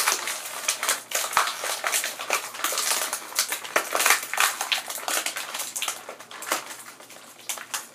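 Crinkling and crackling of plastic toy packaging being handled, a quick irregular run of clicks that thins out after about six seconds.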